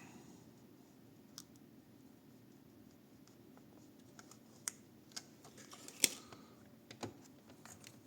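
Plastic bottom cover of a laptop being pried at, its catches giving scattered sharp clicks and scrapes, sparse at first and thicker in the second half, the loudest a snap about six seconds in.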